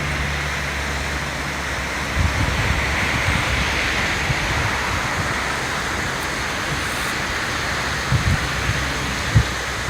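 Floodwater of the Katsura River running high after heavy rain, a steady rush of water, with a few low thumps near the end.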